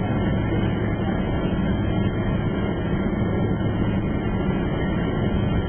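Steady engine and airflow noise of an airliner heard from inside the passenger cabin: a loud, even, low drone with no change in pitch.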